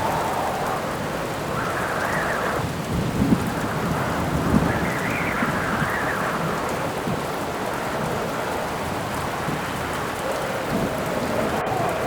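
Steady heavy rain with wind howling in slow rising and falling gusts, and a low rumble of thunder about three to five seconds in.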